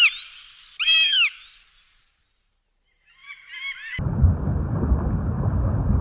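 Bird calls: two loud arched calls in the first second and a half, then fainter ones near three seconds. At about four seconds a steady low noise starts and runs on.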